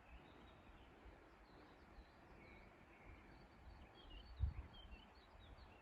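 Faint birdsong: small birds chirping now and then over a low outdoor rumble, with one louder low thump about four and a half seconds in.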